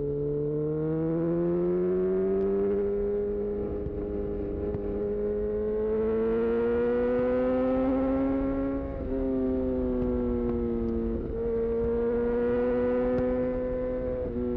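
2018 Honda CB1000R's inline-four engine, fitted with a full-system aftermarket exhaust, pulling under load with its pitch slowly rising, then dropping sharply about nine seconds in at a gear change; two more brief breaks in the engine note follow near the end.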